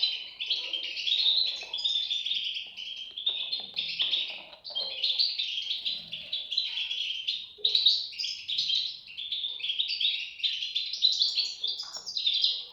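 European goldfinch chicks chirping in a dense, unbroken stream of high, overlapping calls.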